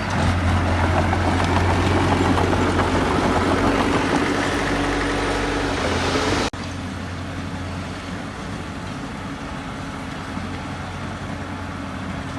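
Heavy diesel engine of earthmoving machinery running steadily with a deep hum. About six and a half seconds in, the sound cuts off abruptly to a quieter, steady engine sound.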